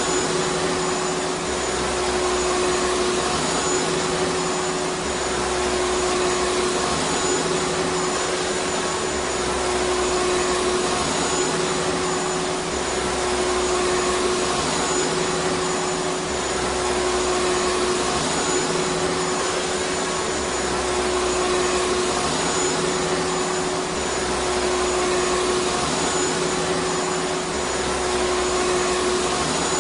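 Vacuum cleaner motor running steadily: an even rush of air with a constant whine over it.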